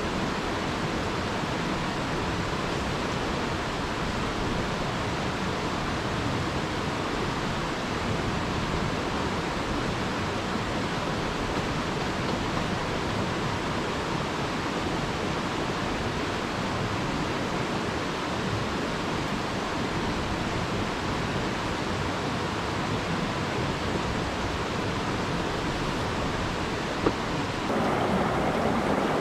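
Mountain stream water rushing steadily, with a single faint click about 27 seconds in and the rushing growing a little louder near the end.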